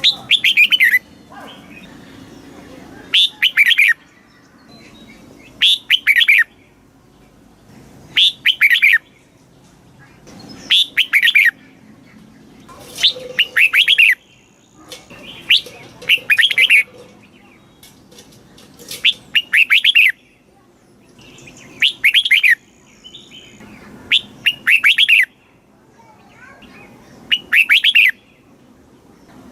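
Red-whiskered bulbul singing short, loud song phrases, each about a second long, repeated roughly every two and a half seconds.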